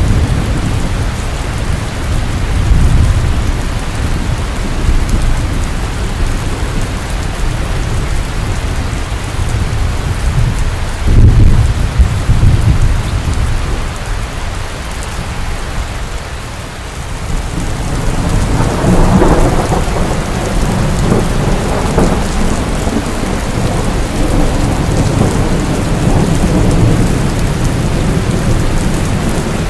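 Rain falling steadily, with thunder rumbling. There is a sharp loud clap about a third of the way in and a longer rolling rumble after the middle.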